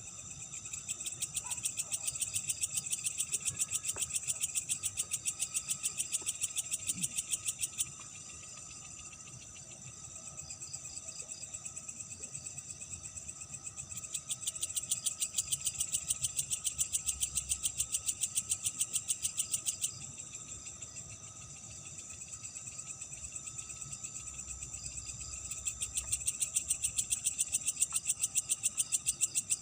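Crickets calling in a fast, even trill of high-pitched pulses, swelling into loud bouts of about six seconds with quieter stretches between.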